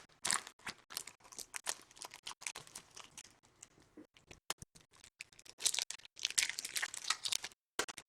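Trading card pack wrappers being torn open and crinkled, with many short, sharp rips and rustles, busiest near the end.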